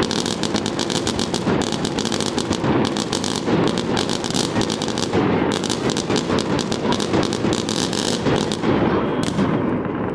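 Fireworks going off in a rapid, dense crackle of many small bangs, thinning out near the end.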